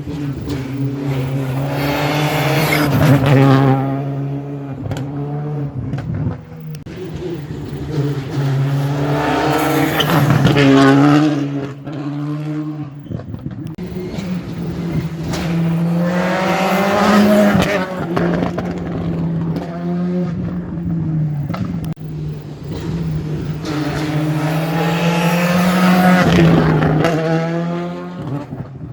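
Rally car engines at full attack on a special stage, revving hard with pitch climbing and dropping through gear changes. There are four loud swells as cars pass, with a steady low engine hum underneath.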